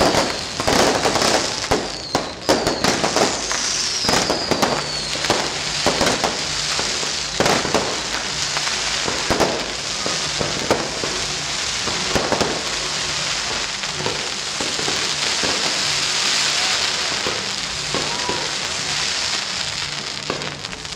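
A fireworks display: shells bursting in repeated sharp bangs, with a few falling whistles in the first few seconds. After that the bangs thin out into a dense, steady crackling.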